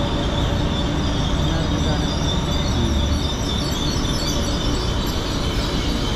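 High-speed train alongside the platform: a steady rumble and hum with a faint, even high-pitched whine.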